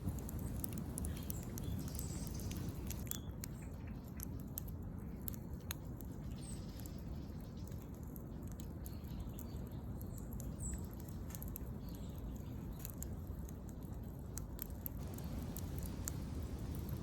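Wood fire burning in a small twig-burning camp stove: scattered sharp crackles and pops over a low steady rumble.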